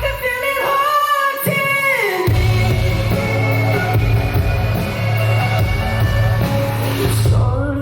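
Live pop-rock band music with singing: a vocal line over the band for the first two seconds, then a held chord over a heavy bass until near the end.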